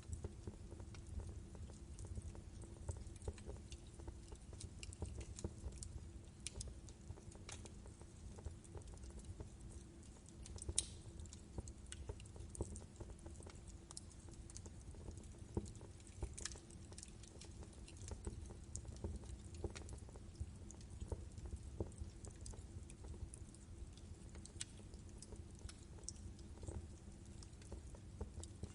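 Wood fire crackling in a fireplace: irregular snaps and pops from the burning logs over a low, steady rumble of the flames.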